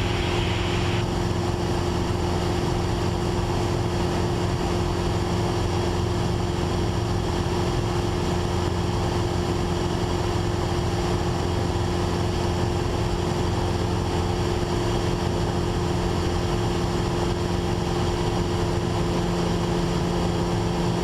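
Steady drone of a Cessna 172's four-cylinder Lycoming engine and propeller in level flight, heard inside the cabin: a constant low hum over an even rush of engine and air noise.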